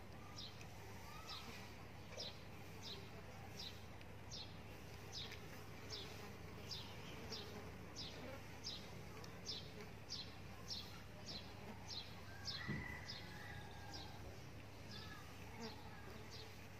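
A baby chick peeping: a steady run of short, high peeps, each falling in pitch, about one every 0.7 seconds. The repetitive peeping of a chick in distress, just hurt in a cat attack.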